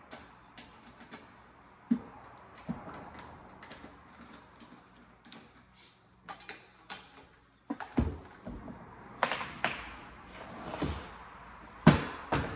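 Irregular clicks, knocks and clatter of tools and hard parts being handled during hands-on repair work, with a few louder sharp knocks, the strongest near the end.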